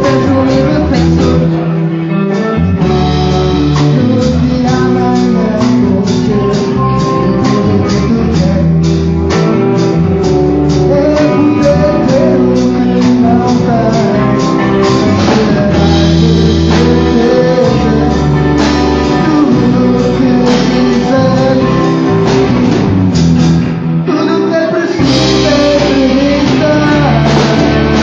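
A band playing a song: guitar and drum kit with a singing voice, on a steady beat.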